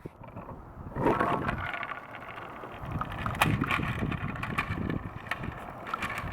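Riderless longboard on early Original P1 trucks rolling downhill on pavement: steady wheel rumble, with a couple of sharp clacks, one at the push-off and one about three and a half seconds in.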